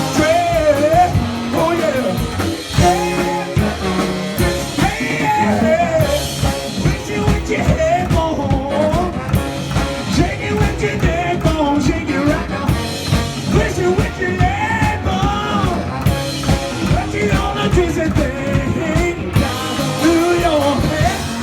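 Live rock-and-roll band playing a song, with a vocalist singing over a steady drum beat.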